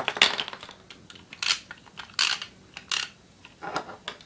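Hard plastic clicking and clattering, about five separate bursts of knocks, from Beyblade launchers and tops being handled and fitted together.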